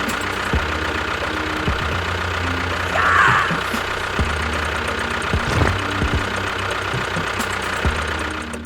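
A small engine running steadily with a rough, rattly pulse, with a short high chirp about three seconds in.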